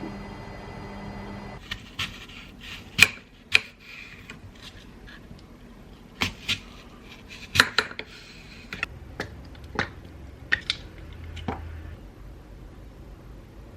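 Kitchen utensil sounds: a spoon, bowls and a pot knocking and clinking in sharp, irregular strikes. A steady hum stops about a second and a half in.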